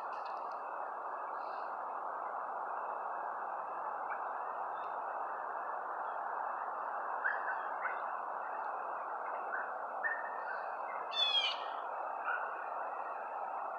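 Birds chirping in short calls, with a quick run of falling chirps about eleven seconds in, over a steady outdoor hiss and a faint steady high hum. No rocket rumble is heard.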